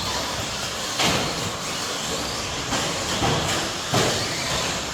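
Electric 1/10-scale stadium trucks with 13.5-turn brushless motors racing on an indoor track: a steady mix of motor whine and tyre noise, with sharp knocks about a second in and again near the end.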